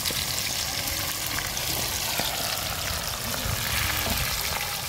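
Salted, floured pieces of fish sizzling steadily in hot frying oil.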